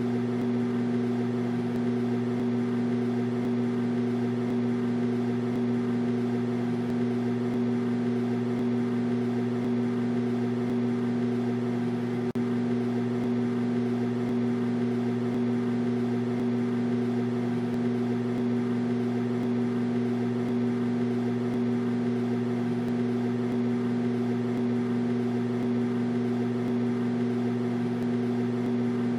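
Microwave oven running with a steady electrical hum and fan whir, broken by a brief dropout about twelve seconds in.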